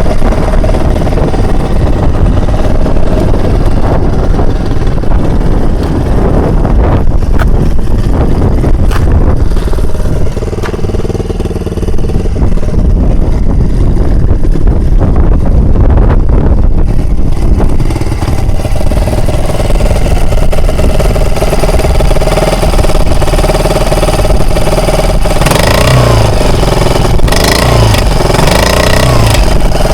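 Honda BF 2.3D air-cooled single-cylinder four-stroke outboard motor running steadily under way. It is briefly quieter about ten seconds in, and its pitch wavers near the end.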